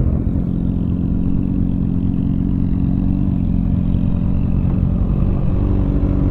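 2004 Honda Shadow 750's V-twin engine running steadily under a rider at road speed. Its pitch shifts slightly about five and a half seconds in.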